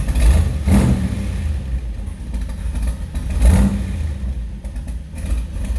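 Classic car's engine running at idle with a steady low rumble, briefly revved twice, about a second in and again about three and a half seconds in.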